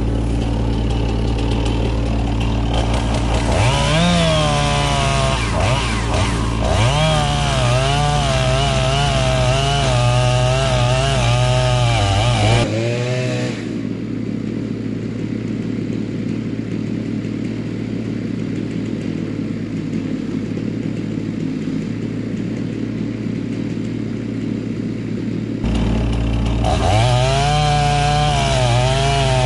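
Two-stroke chainsaw cutting into a tree trunk, its engine pitch wavering as the chain bogs and recovers under load, over a steady low engine hum. About 13 seconds in the sound drops abruptly to a quieter steady running stretch, and the saw is back cutting near the end.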